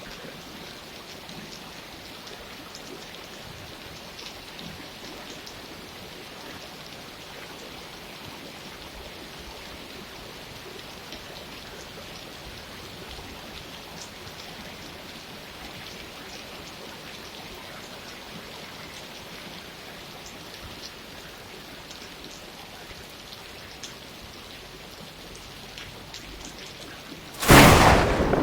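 Steady rain falling, an even hiss of drops. Near the end a sudden, very loud thunderclap breaks in and rumbles on.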